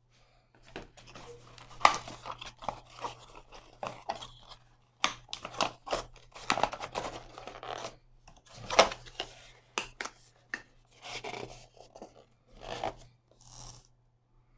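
Packaging of a Xiaomi Mi Box S unboxing being handled: irregular rustling, rubbing and tearing with sharp clicks and knocks, loudest about two seconds in and again near nine seconds.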